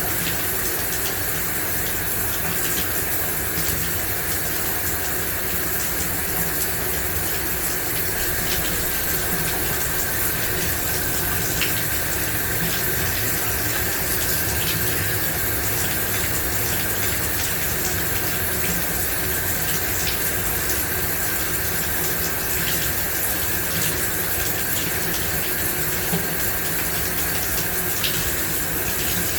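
Shower running steadily: an even spray of water hissing and splashing, with a few faint droplet ticks.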